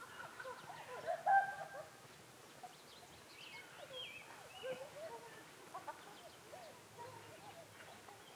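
Wild birds chirping and calling: scattered short notes, louder for the first couple of seconds, then sparser and fainter.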